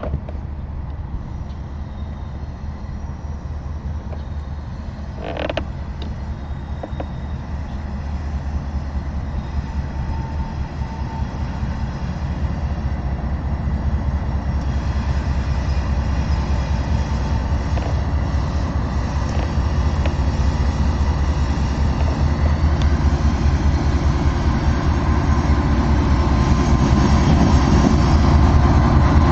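Loaded freight grain train rolling past, its low rumble of wheels on the rails and diesel locomotives growing steadily louder, with creaking from the cars and one short sharp sound about five seconds in.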